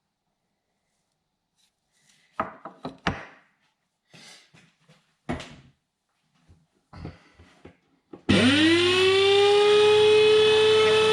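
A few knocks and scrapes of tools being handled, then about eight seconds in a cordless angle grinder starts: its motor whine rises quickly and settles into a steady, loud free-running pitch.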